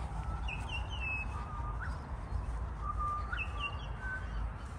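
Birds calling: short high chirps in two quick runs of three, with clear whistled notes between them, over a steady low rumble.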